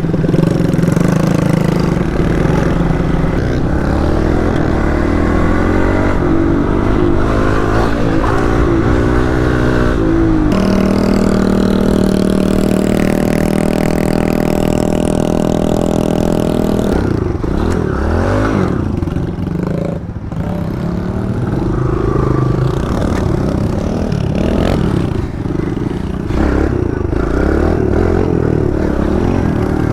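Mini bike engine running hard while being ridden, its revs climbing and dropping through the gears. The engine holds one steady pitch for several seconds in the middle, then revs up and down again.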